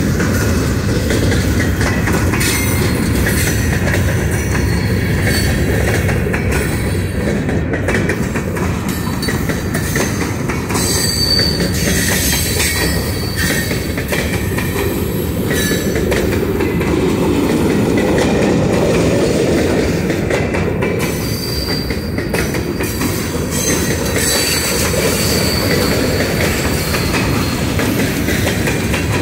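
Railroad cars rolling steadily past, wheels clattering over the rails, with thin high wheel squeal coming and going a couple of times.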